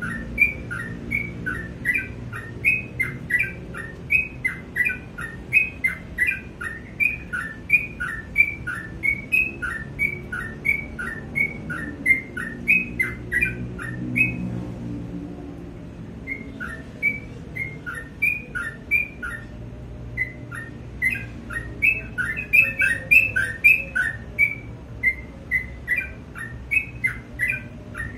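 Yellow-vented bulbul (trucukan) singing persistently: a long run of short, bubbly notes about two a second, with a pause of a couple of seconds about halfway through.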